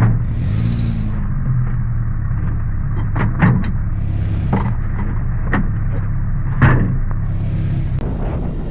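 Vehicle engine running steadily with a low hum, with a few short knocks or clicks about halfway through.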